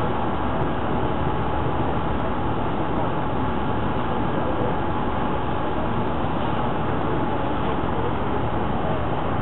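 Steady drone of a boat's engine, with a constant rushing noise and a faint steady whine over it.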